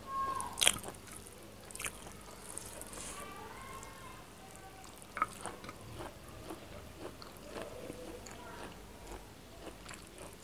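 Close-up eating sounds of chicken curry and rice: chewing and wet mouth sounds, with a few sharp clicks.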